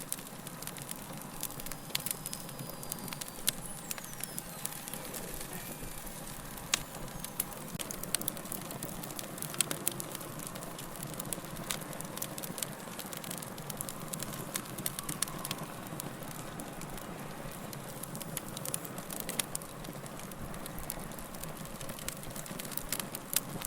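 Log fire crackling: frequent irregular sharp pops and snaps of burning wood over a steady low hiss and rumble of flames.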